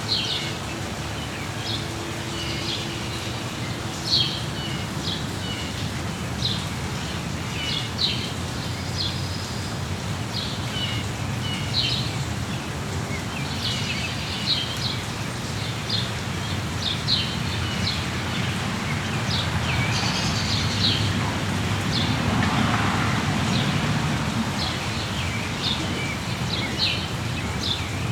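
Small songbirds chirping, many short repeated calls one after another, over a steady hiss and patter of rain. The rain grows louder for a few seconds past the middle, then settles again.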